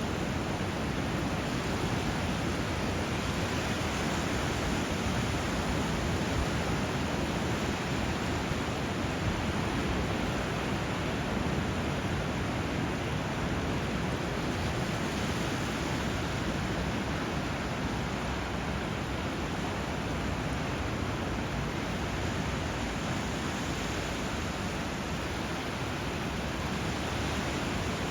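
Steady rushing water where a river meets the sea: an even wash of noise with no distinct wave surges or bird calls.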